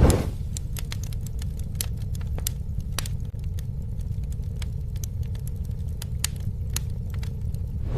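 Campfire burning: a steady low rumble of flames with irregular sharp crackles and pops, and a brief louder rush of flame at the very start.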